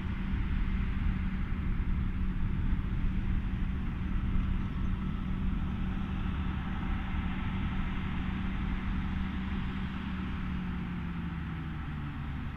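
John Deere 7230R tractor running steadily while pulling an AVR Spirit 9200 potato harvester, with a steady hum of harvester machinery; the engine note drops slightly near the end.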